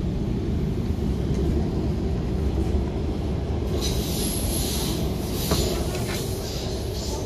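MTR K-Train running, heard from inside the car: a steady low rumble of the running gear. About halfway through, a high hissing wheel-on-rail noise joins in, with a few sharp clicks.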